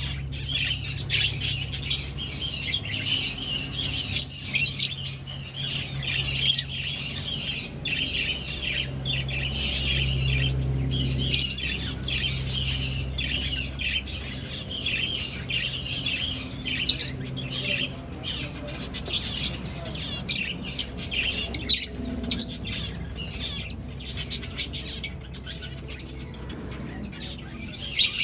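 A flock of aviary finches calling continuously, many short chirps overlapping with no break. A steady low hum runs underneath.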